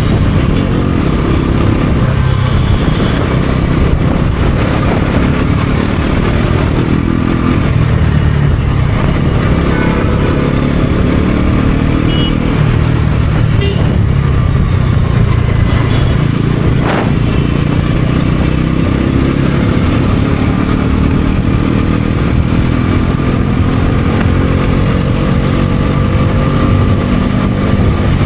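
Bajaj Pulsar NS400Z's single-cylinder engine running under way, its pitch rising and falling with the throttle. Near the end it climbs steadily as the bike accelerates.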